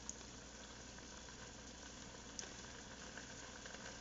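Faint steady simmering of a pot on the stove, with a couple of light clicks.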